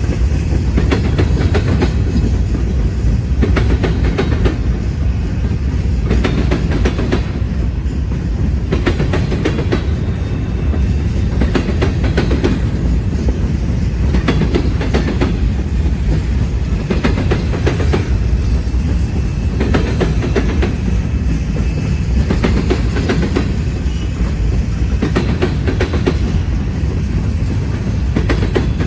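Norfolk Southern freight train rolling past close by: a loud, steady low rumble of the cars, with clickety-clack clusters every couple of seconds as the wheels cross rail joints.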